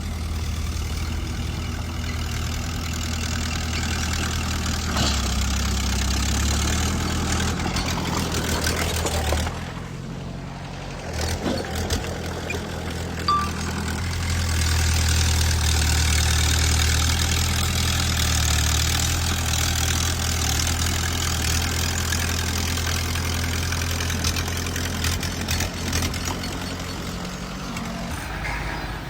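Bulldozer's diesel engine running steadily under load. It eases off briefly about a third of the way in, then pulls harder again, with a few short knocks.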